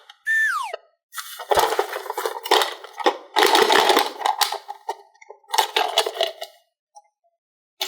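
Irregular clattering and rattling of plastic toy pieces and diecast toy cars, in bursts with short pauses. Near the start there is a brief falling whistle-like glide.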